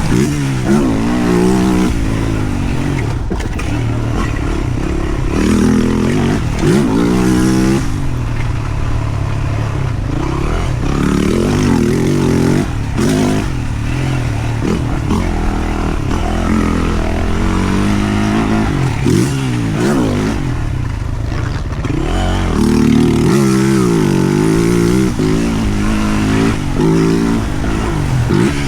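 2023 Yamaha YZ450F's single-cylinder four-stroke engine revving hard and backing off again and again as the bike is ridden round a motocross track, its pitch climbing and dropping every few seconds.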